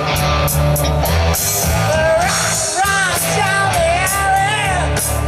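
Live rock band playing: drum hits over a steady bass and guitar bed. A wavering melody line comes in over it about two seconds in.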